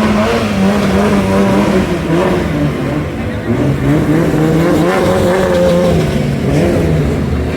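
Car engine running loud, its pitch dipping, then climbing as it revs up about halfway through and falling back again.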